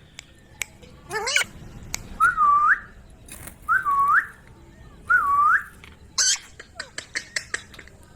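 Indian ringneck parakeet calling and whistling: a short chirpy call, then three identical clean whistled notes, each dipping and then rising, about a second and a half apart. A shrill screech and a run of soft clicks follow near the end.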